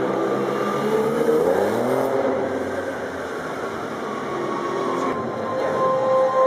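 Lancia Stratos's Ferrari-built V6 engine running as the car drives along, its pitch rising as it revs up about a second in, then settling to a steadier note.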